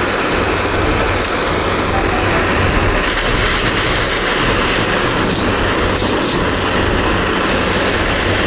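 Electric power tool grinding metal: a steady, loud abrasive grinding noise over a motor hum, typical of rust being ground or sanded off.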